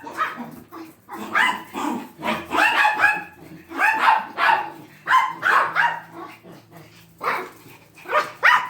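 Pet dogs barking and yipping repeatedly in a run of short barks, excited about going out for a walk.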